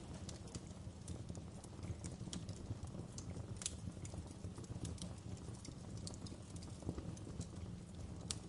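Wood fire crackling in a fireplace: irregular sharp pops and snaps from the burning logs over a low, steady rumble of the flames.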